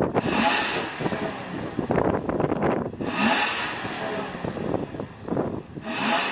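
Infiniti G coupe's V6 breathing through an aftermarket variable-valve muffler, revved in repeated blips. Each rev climbs in pitch and peaks in a loud rushing hiss, three times over.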